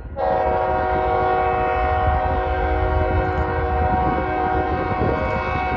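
Freight locomotive's multi-chime air horn sounding a long, steady blast that gets louder just after the start, over the low rumble of the train.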